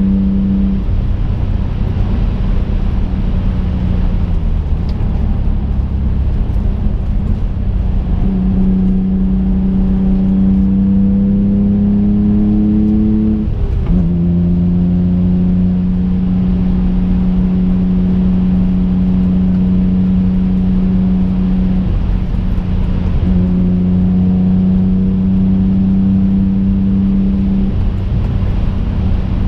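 The 2005 Infiniti G35 coupe's twin-turbocharged 3.5-litre V6 engine pulls steadily under road noise as a droning engine note. Its pitch rises slowly for several seconds, drops sharply about fourteen seconds in, and then holds steady.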